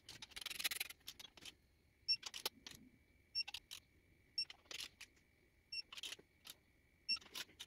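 Torque wrench clicking in short strokes, about once a second, as bolts are tightened to 65 newton metres in the first torque stage, with a thin steady high tone from about two seconds in to near the end.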